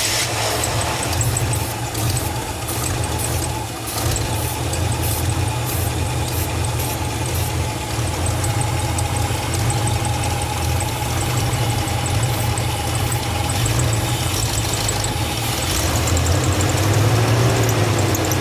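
1970 Chevy C10's engine turning over, fed starting fluid sprayed into the carburettor while fuel is barely reaching it; a steady mechanical drone with a regular ticking.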